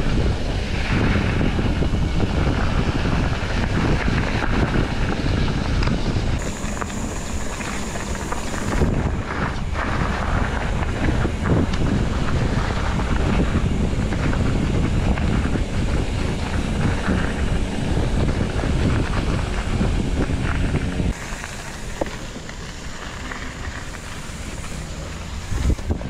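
Wind buffeting the camera microphone while mountain biking down a trail, with the bike rattling and knocking over the ground. It is quieter for the last few seconds.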